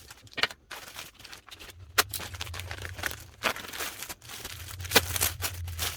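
Plastic packaging crinkling and crackling as it is handled and opened, in irregular sharp crackles, the loudest about two, three and a half, and five seconds in. A low hum runs underneath from about two seconds in.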